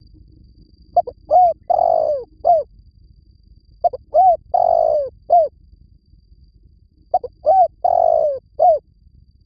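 Spotted dove cooing in three repeated phrases about three seconds apart, each of four to five short coos with a longer drawn-out note in the middle. It is a decoy call, the kind played to lure wild doves.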